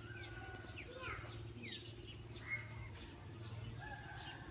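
Small birds chirping busily, many short falling chirps overlapping one another, over a low steady hum.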